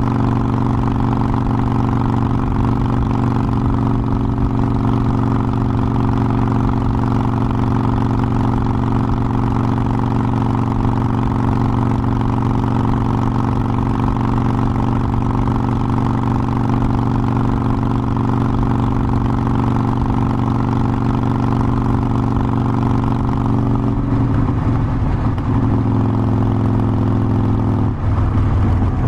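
Harley-Davidson Forty-Eight Sportster's air-cooled 1200 cc V-twin running at a steady, even pace. A few seconds from the end the engine note breaks and changes pitch, then changes again shortly after.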